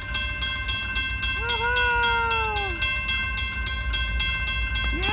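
Railroad crossing warning bell ringing rapidly at about four strikes a second, its ringing tones held steady between strikes, over a low rumble.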